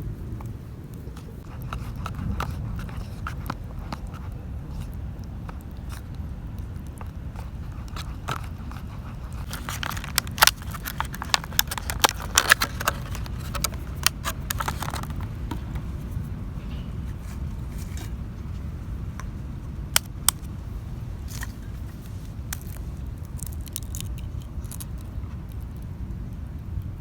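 Wind rumbling on the microphone, with a run of sharp clicks and scrapes of small hard objects about ten to fifteen seconds in and a few more later.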